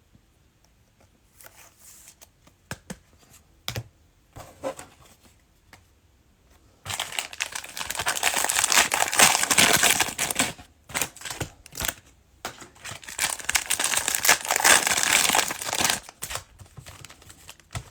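Cellophane wrapper of a trading-card cello pack crinkling and tearing as it is handled and opened. A few faint rustles and clicks at first, then loud, continuous crinkling from about seven seconds in that lasts around nine seconds, with a short break in the middle.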